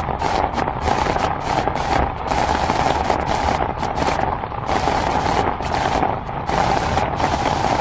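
Heavy rain falling steadily, a dense hiss of drops.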